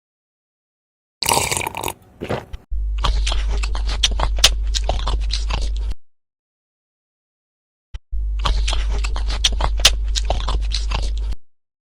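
Close-miked mukbang eating sounds: crunchy chewing and biting with many crisp clicks, in two stretches of about three seconds each over a steady low hum, after a short noisy burst about a second in.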